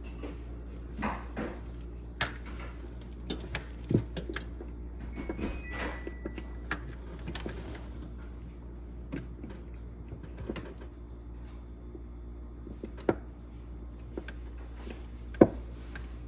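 Scattered knocks and clicks from refrigerator panels and parts being handled during a repair, the sharpest about four seconds in, and again near thirteen and fifteen seconds. A steady low hum runs underneath.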